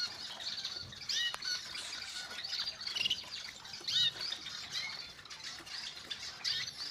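Caged red-factor canaries chirping: short, high calls scattered irregularly, a few every second.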